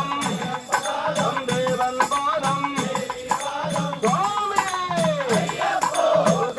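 Ayyappa devotional bhajan: voices singing a melody with long gliding notes over a steady rhythm of percussion.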